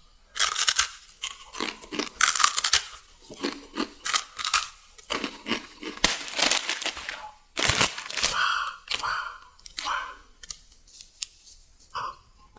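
Plastic food packaging being torn open and crinkled in a long series of short, sharp rustling bursts.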